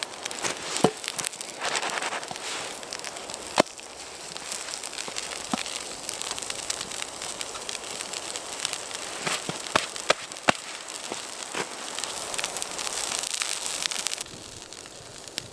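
Wood fire crackling, with scattered sharp pops over a steady hiss that drops away near the end.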